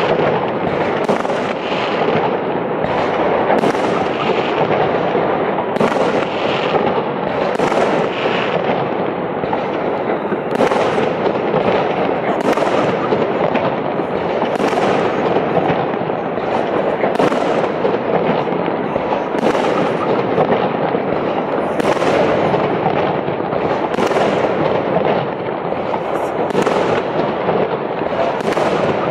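Festival fireworks salute going off in a continuous barrage: sharp bangs about once a second over a steady noisy din.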